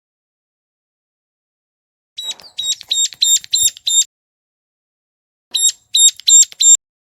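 Ciblek gunung calling: two series of sharp, high, repeated notes at about three a second, the first starting about two seconds in and running for nearly two seconds, the second, of four notes, near the end. It is a recorded call used as a lure to attract wild birds.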